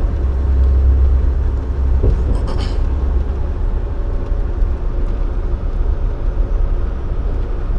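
Dump truck driving at highway speed, heard from inside the cab: a steady low engine and road rumble that eases slightly about two seconds in.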